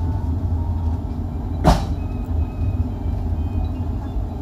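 Passenger coach riding on the rails, heard from inside: a steady low rumble of the running train, with one sharp clack a little under two seconds in.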